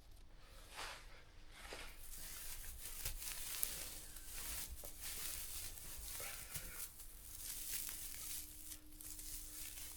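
Faint, irregular rustling and crackling of dry hay being handled.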